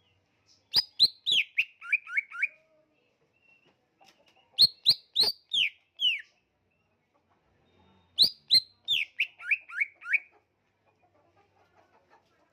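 Kalimantan cucak ijo (a leafbird) singing three phrases, each a quick run of sharp notes stepping down from high to lower pitch, with short pauses between them.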